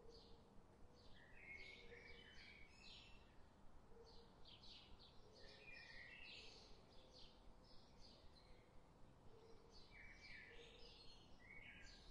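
Faint background chirping of small birds: many short, high chirps in quick succession over near silence.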